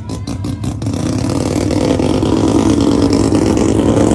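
Drag car engine running loud, with rapid popping pulses in the first second, then a dense engine sound that keeps getting louder.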